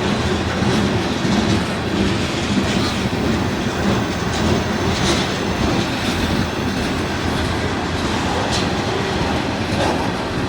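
Freight train cars rolling past, with a steady rumble of wheels on rail and occasional sharp clacks or brief squeals from the wheels.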